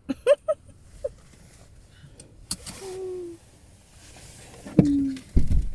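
Gulls calling: a few short, rising calls early on and a longer held call near the middle, with a low thump just before the end.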